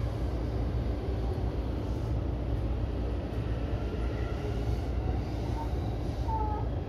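E233-series electric train running along the track, heard from just behind the driver's cab: a steady low rumble of wheels and motors. There are a couple of brief faint squeaks near the end.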